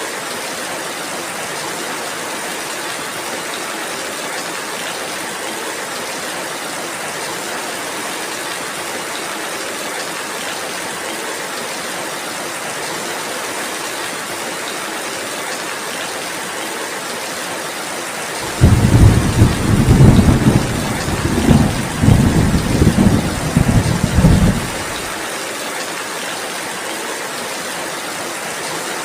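Steady rainfall, with a loud rumble of thunder that starts suddenly about two-thirds of the way through, rolls in several waves for about six seconds and then dies away.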